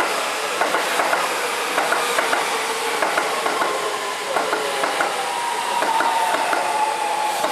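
Hokusō Railway 7200 series electric train passing close by, its wheels clacking over rail joints and points, the clacks often coming in pairs. A steady whine rides over the rumble and slides a little lower in pitch in the second half.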